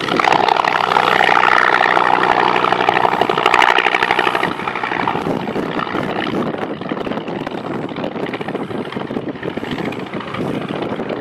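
Yakovlev Yak-18's radial piston engine and propeller running in flight during an aerobatic display. The sound is loudest for the first four seconds or so, then drops a little and stays steady.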